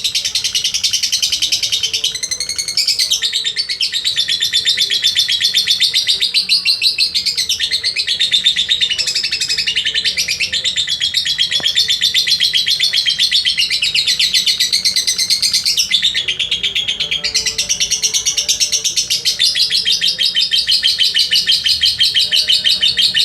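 Lovebird singing a long, rapid chattering trill, the near-unbroken song bird-keepers call ngekek. It falters briefly about two seconds in and again about two-thirds of the way through.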